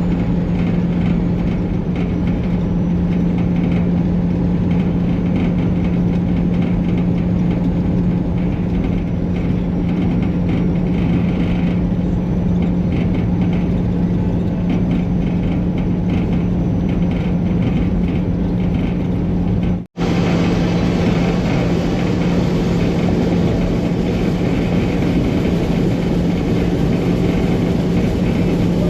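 Peterbilt 379 semi truck's diesel engine droning steadily at highway cruise, heard from inside the cab with road rumble. The sound drops out for an instant about twenty seconds in.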